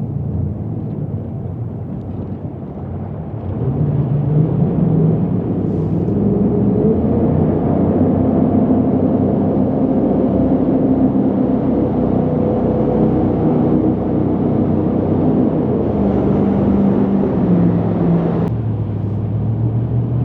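Jet boat engine and water-jet drive running under way, opening up about three to four seconds in and holding a steady higher pitch, then easing off shortly before the end.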